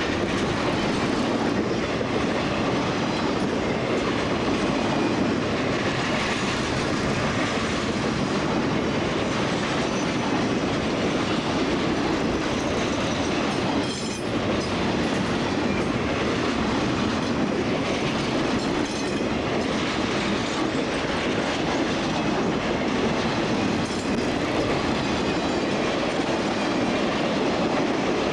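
Freight train cars rolling past, with steady wheel and rail noise and clickety-clack over the rail joints.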